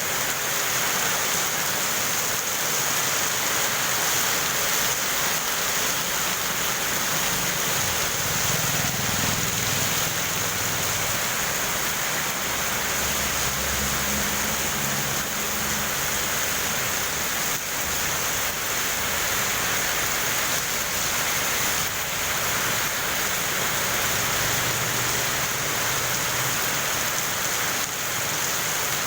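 Heavy rain falling steadily, with a low rumble for several seconds around a third of the way in.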